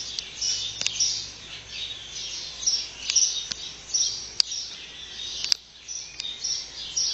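Birds chirping outdoors, short high notes repeated about twice a second, with a few sharp clicks in between.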